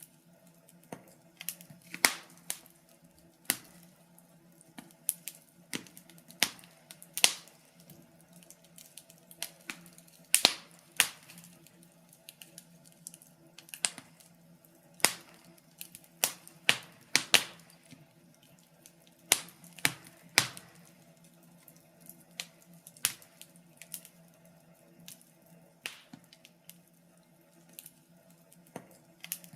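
Wood fire crackling, with irregular sharp pops and snaps at uneven intervals, some much louder than others. Underneath runs a faint steady low hum.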